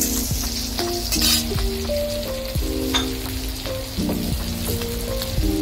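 Onions, garlic and green chillies sizzling in hot oil in a steel kadai, stirred with a steel spatula that scrapes and taps against the pan, over background music.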